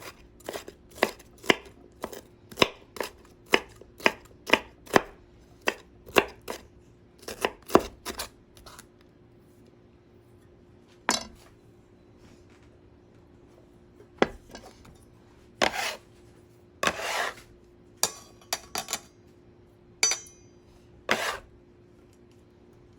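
Knife chopping on a cutting board, steady strokes about two a second for the first eight seconds. After a pause come scattered chops and a few longer scraping sounds.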